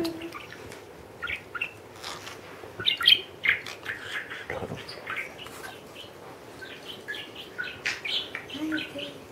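Small pet parrot making a run of short chirps and clicking sounds in quick, irregular succession, the percussive 'beatbox' noises it is known for.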